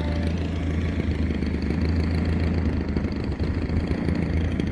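Strong wind buffeting the phone's microphone: a steady low rumble with a rough hiss above it.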